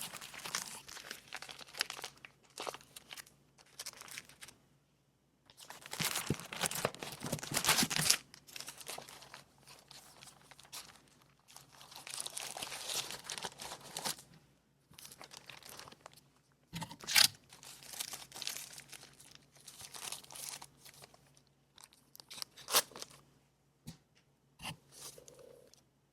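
Packaging crinkling and tearing as items are handled and unwrapped by hand, in irregular bursts with short pauses and a few sharp clicks.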